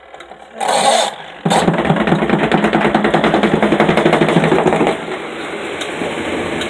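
Spin dryer of a portable twin-tub washing machine starting up: a short noisy burst about a second in, then the motor spins the drum up with a loud, rattling hum that settles to a steadier, quieter whir at about five seconds.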